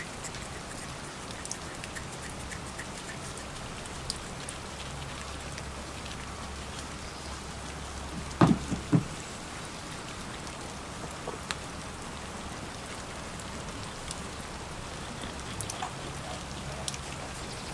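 Steady rain falling, an even patter, with a low steady hum under it. Two sharp knocks come about half a second apart, a little past the middle.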